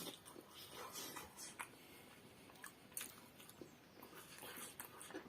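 Faint chewing and small mouth clicks of someone eating steamed momo dumplings.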